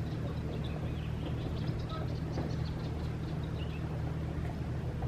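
Small birds chirping in short, high calls over a steady low rumble, such as distant traffic or an engine.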